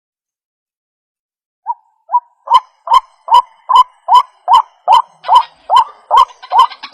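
White-breasted waterhen (ruak-ruak) calling. After a pause of nearly two seconds, two soft notes lead into a steady run of loud, short, rising calls at about two and a half a second.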